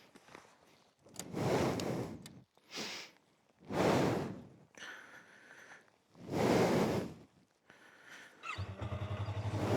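Several short whooshing swells of noise, then a sportbike's engine starts near the end and settles into a steady idle.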